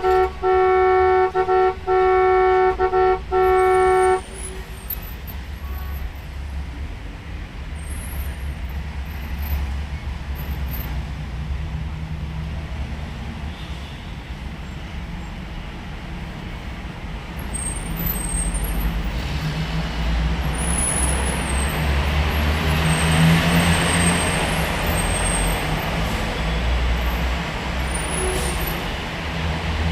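A vehicle horn sounds a two-note chord in several honks in the first four seconds. A steady low engine rumble follows and grows louder from about eighteen seconds in.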